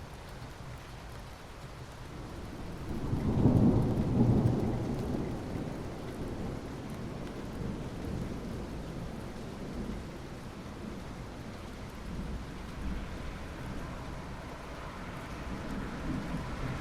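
Steady rain, with a roll of thunder that swells about three seconds in and fades away over the next few seconds.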